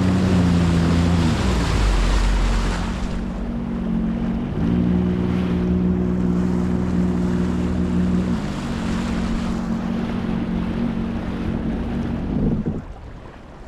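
Sea-Doo jetski engine running over wind and water rush. Its revs drop about a second in, pick up again a few seconds later, then settle back to a lower idle before the engine is switched off near the end.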